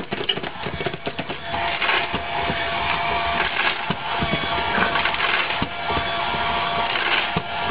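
Dry kibble clattering and crunching as a cat eats from an automatic pet feeder, in a dense run of small clicks. About a second and a half in, a steady thin whine comes in and holds: the feeder's motor running.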